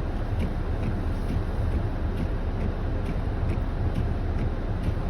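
Car cabin noise while driving: a steady low rumble of engine and tyres on the wet, snowy road. A faint regular ticking runs through it about twice a second.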